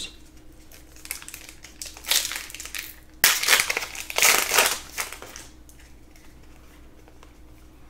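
Crinkling and crumpling of a foil trading-card pack wrapper being handled, with a short burst about two seconds in and a longer, louder stretch from about three to five seconds in.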